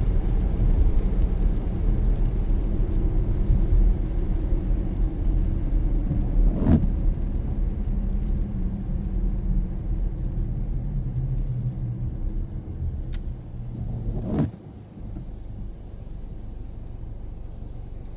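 Car driving along a road: a steady low rumble of tyres and engine. Two short sharp knocks come through it, about seven and fourteen seconds in, and the rumble turns quieter just after the second.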